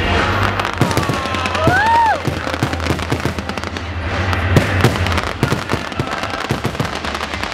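Fireworks going off in a dense run of bangs and crackles. A brief whistle rises and falls about two seconds in.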